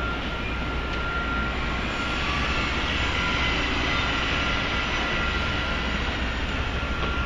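Steady urban din of traffic and construction-site machinery, with a constant high-pitched whine; it swells slightly a few seconds in.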